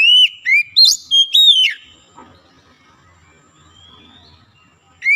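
Oriental magpie-robin song: a loud phrase of about five clear whistled notes sliding up and down, lasting about two seconds. A quiet gap with one faint rising note follows, and then the same phrase starts over identically, as in a looped song recording.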